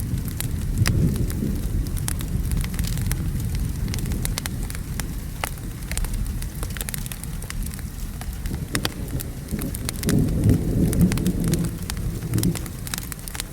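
Steady rain with a low, rolling thunder rumble that swells about ten seconds in, over the scattered sharp pops of a crackling wood fire.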